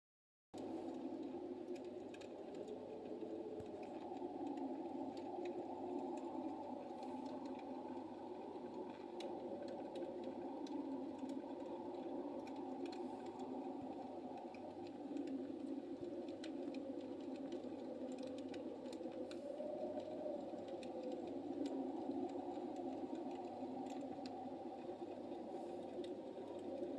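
Fire burning in a large fireplace: a steady low rushing with many small, irregular crackles.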